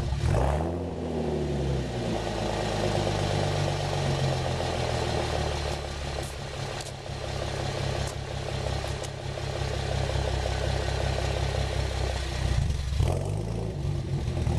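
2010 Chevrolet Camaro's 3.6-litre V6 exhaust, set up with a "ghost cam", idling. It is revved at the start and the revs fall back over about two seconds to a rumbling idle, and it is blipped briefly once more near the end.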